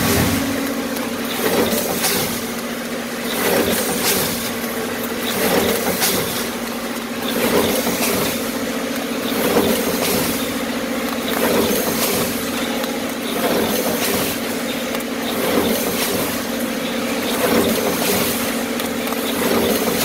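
A machine running with a steady hum, surging in a regular cycle about every two seconds.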